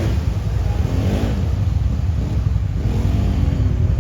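Quad bike engines revving, the pitch rising and falling several times over a steady low rumble.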